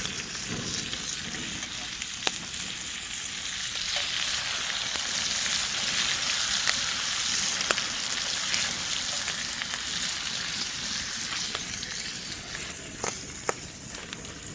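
Pork belly sizzling as it grills over a campfire: a steady frying hiss with occasional sharp pops, easing off a little near the end.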